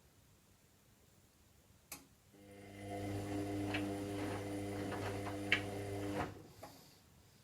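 Washing machine gives a sharp click, then its motor turns the drum for about four seconds with a steady hum and a couple of knocks from the load, then stops suddenly: one stroke of the drum's tumble-and-pause action during a synthetics warm-wash cycle.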